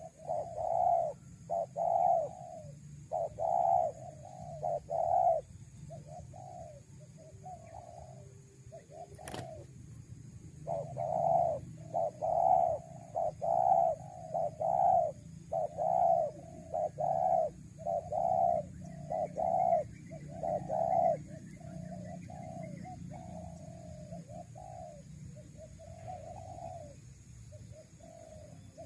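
Spotted doves (tekukur) cooing in repeated phrases of short coos, with brief pauses between phrases. A single sharp click comes about nine seconds in, and a steady low hum runs beneath.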